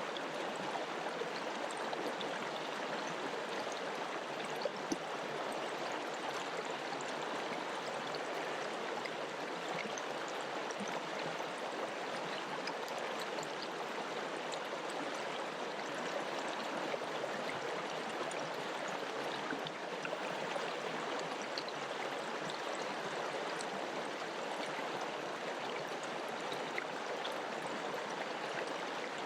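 A mountain river or stream flowing over rocks: a steady rush of running water with small splashes and gurgles.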